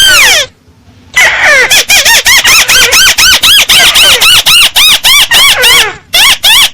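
Crake (Indonesian 'burung tikusan sawah') calling loudly: one arched squealing note, a short pause, then a fast run of rising-and-falling squealing notes, about four or five a second. This is a lure call used to attract the bird.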